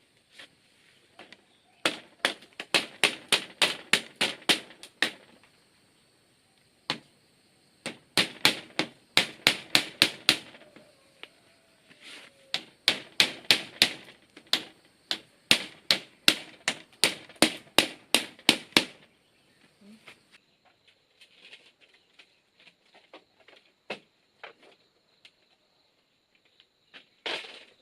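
A hand tool striking bamboo or wood in fast runs of sharp knocks, about four a second, in three bursts, followed by a few lighter scattered taps.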